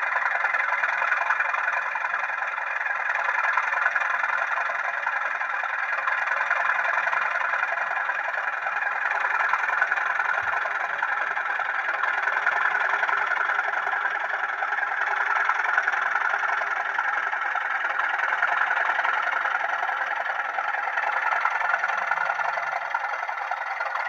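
Sound-fitted OO gauge model Class 37 diesel locomotive playing its engine idle through the model's small speaker: a steady diesel running sound, thin and with little bass.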